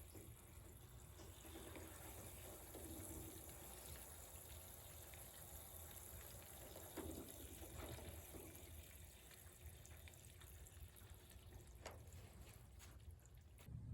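Faint trickle of water as a water heater drains slowly through its opened drain valve, with a couple of faint clicks. The flow is slow because too little air is getting into the tank.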